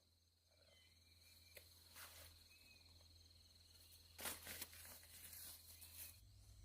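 Near silence with a faint steady high insect trill, broken by a few soft rustles, the loudest cluster about four seconds in.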